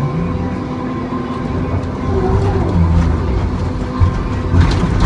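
John Deere 2954D log loader's diesel engine running under load, growing louder about two seconds in, with two sharp knocks near the end.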